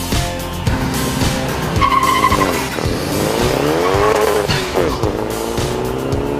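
Car engines revving over backing music with a beat: a short tire squeal about two seconds in, an engine climbing then dropping in pitch, then another accelerating hard with steadily rising pitch near the end.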